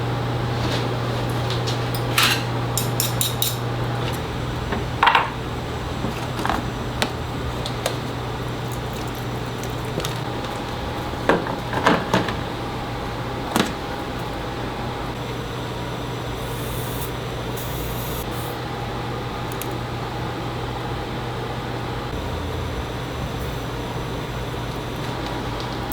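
Scattered light clinks and taps of small metal tools and objects being handled, over a steady low hum.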